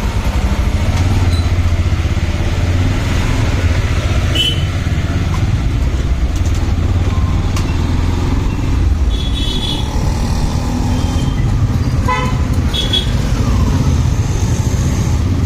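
Motorcycle riding in traffic, its engine and road noise a steady low rumble, with several short vehicle horn toots, the clearest about three-quarters of the way through.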